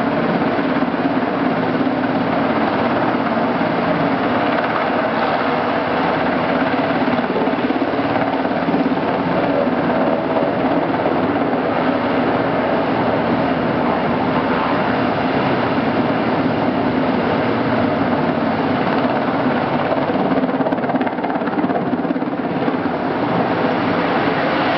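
Coast Guard MH-60T Jayhawk helicopter's turbine engines and rotors running steadily at close range.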